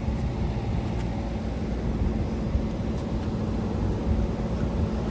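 A steady, low engine hum with no clear events.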